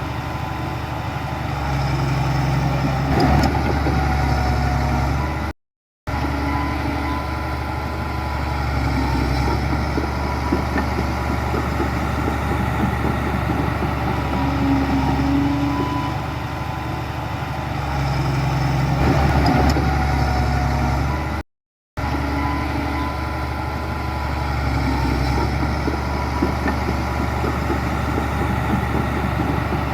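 Heavy diesel engines of earthmoving machines running steadily, rising and falling a little as they work. The sound cuts out briefly to silence twice.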